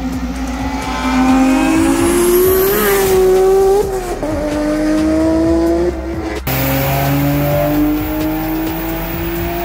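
A Nissan RB straight-six car engine revving up hard under acceleration, dropping in pitch at a gear change about four seconds in, then climbing again. After an abrupt cut, an R32 Nissan Skyline GT-R's engine pulls on a chassis dyno, its revs rising slowly and steadily in one gear.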